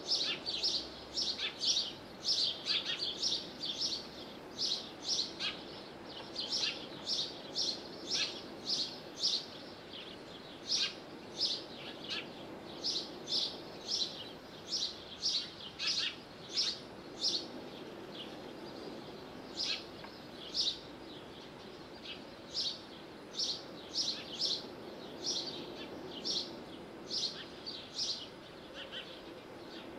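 Small birds chirping: short, high, sharp chirps repeated about two a second in uneven runs, over a steady low background noise.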